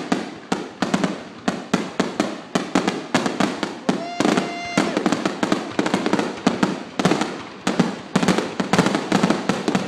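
Fireworks finale: a dense, rapid barrage of aerial shell bursts, several sharp bangs a second with no let-up, each trailing off in a short echo. A brief steady whistle-like tone sounds about four seconds in.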